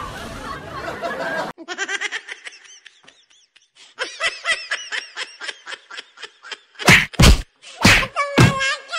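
After a moment of outdoor background noise, an added comedy sound effect of rapid high-pitched giggling starts suddenly, with the pulses coming about four or five a second. Four loud whacks land in the last two seconds.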